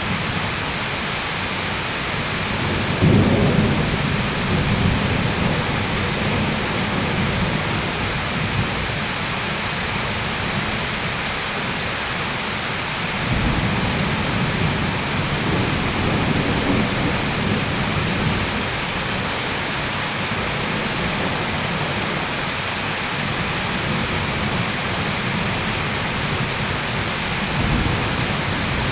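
Thunderstorm: steady heavy rain with rolls of thunder, the loudest rumble about three seconds in, more rumbling in the middle and another toward the end.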